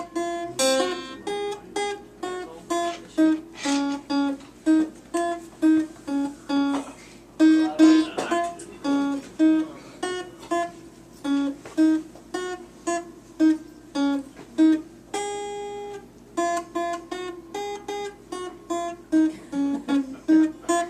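Acoustic guitar picking out a melody note by note, about two notes a second, with one longer held note about fifteen seconds in.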